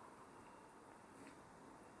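Near silence: the faint hiss of a burning campfire with a couple of very soft crackles.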